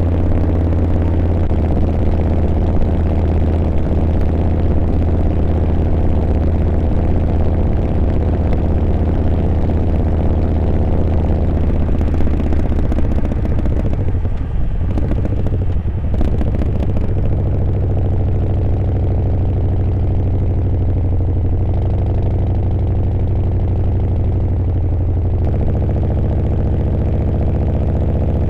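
Harley-Davidson V-twin motorcycle engine running steadily while riding, with a brief change in the engine note about halfway through.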